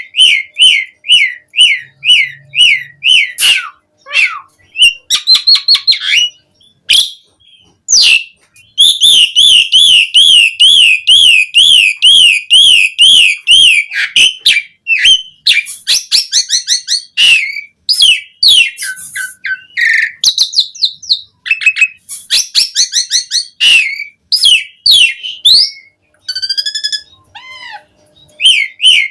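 Pied starling (jalak suren) singing a loud, varied song. It repeats slurred whistles, runs into a long stretch of fast up-and-down warbling at about three notes a second, and mixes in sharp clicks and chattering notes.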